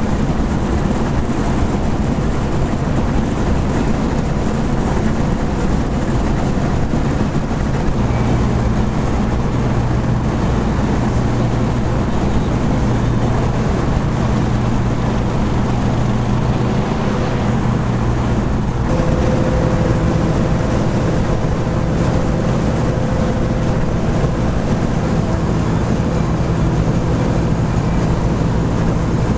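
Muscle car cruising at highway speed: a steady engine drone mixed with road noise. The engine note shifts about a quarter of the way in and again about two-thirds of the way through.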